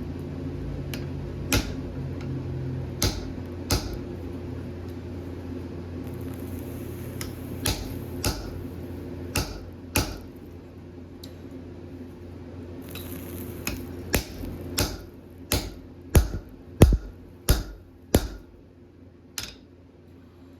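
Hammer blows on hot steel at an anvil, single strikes at irregular intervals that come quicker and harder near the end, over a steady low hum.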